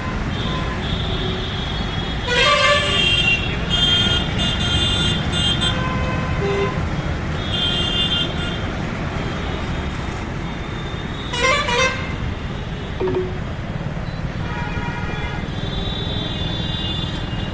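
Busy street traffic heard from a moving motorbike: vehicle horns honk repeatedly, some in quick overlapping runs and one with a warbling tone near the middle, over a steady low rumble of road and wind noise.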